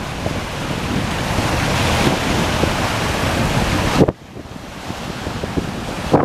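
Wind buffeting the microphone over waves splashing. About four seconds in the wind noise drops off abruptly, leaving the splashing of the waves clearer.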